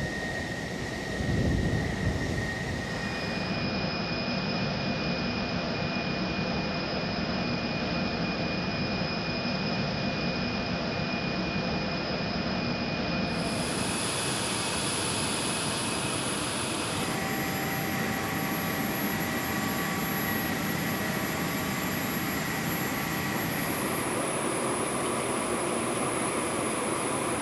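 Large aircraft jet engines running with a steady rushing noise and a high, even turbine whine. The pitch of the whine changes abruptly several times.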